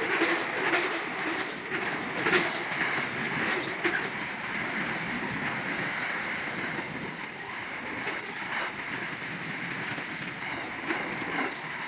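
Freight train wagons rolling past at close range: the steady noise of steel wheels on rail, with scattered sharp clicks and clanks.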